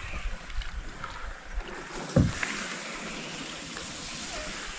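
Canoe paddling: steady swish of paddle and water, with one sharp knock about two seconds in.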